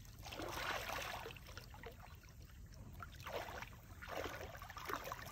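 Small waves washing onto the beach, a soft hiss that swells and falls back several times.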